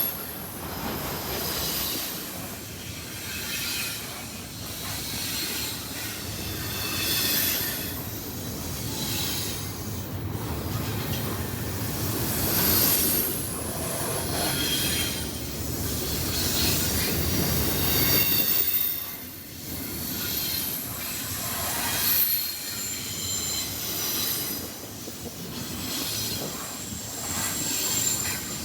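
Freight train cars rolling past, steel wheels squealing against the rail in short, repeated high-pitched squeals over a steady rumble and clatter of wheels on track.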